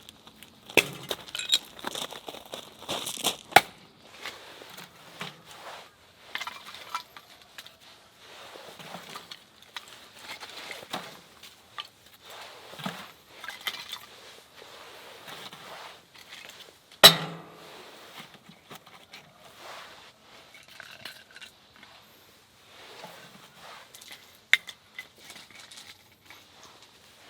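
Scattered light metallic clinks, taps and rustles of camping gear being handled, with one sharp knock about seventeen seconds in and a smaller one near the end.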